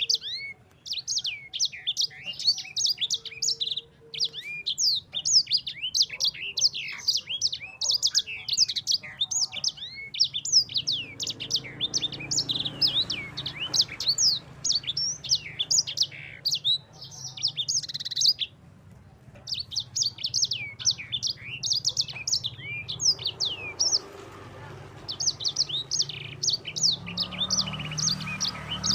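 A sanger songbird singing a long, fast run of high chirps and trills, broken by brief pauses about 10, 18 and 24 seconds in. This is the energetic, continuous 'gacor' song that bird keepers play to train other birds.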